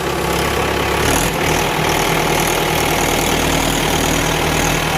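A tractor's diesel engine running steadily at a low, even speed.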